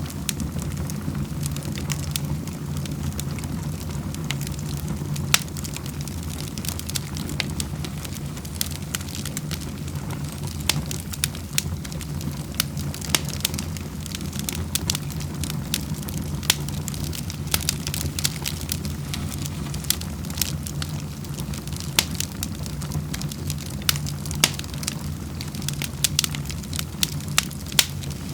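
Wood fire crackling, with frequent sharp irregular pops and snaps over a steady low rumble of burning logs.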